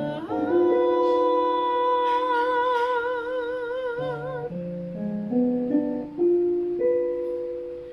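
A mezzo-soprano singing a Filipino kundiman (art song) with accompaniment: she holds one long note that takes on a wide vibrato, then lets it go about halfway through while the accompaniment moves on under the next phrase.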